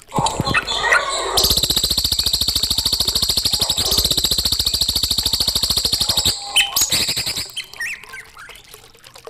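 Songbird singing: a few short chirps, then a loud, rapid, even trill held for about five seconds, followed by scattered shorter calls.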